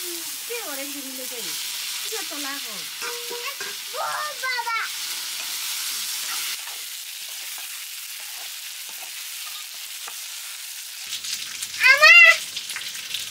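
Pork curry sizzling as it fries in a pan. Short pitched calls come and go over the first few seconds, and near the end one loud call rises and falls in pitch.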